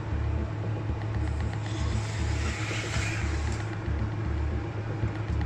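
A steady low mechanical hum with an uneven pulsing rumble, and a hiss that swells and fades about two to three seconds in.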